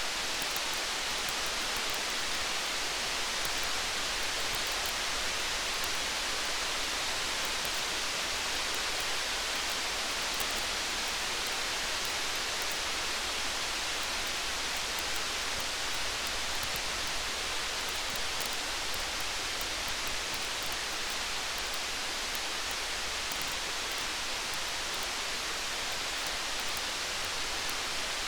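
Steady rain hiss, even and unbroken, with faint fine ticks scattered through it that may be drops or light crackling.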